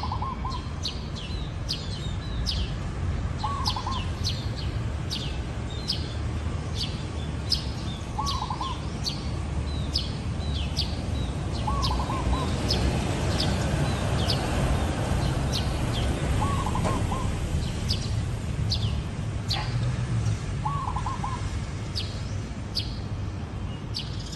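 Zebra dove cooing: short, rapid trilled coos repeated about every four seconds, over a run of sharp high chirps from small birds about twice a second. A steady low rumble runs beneath.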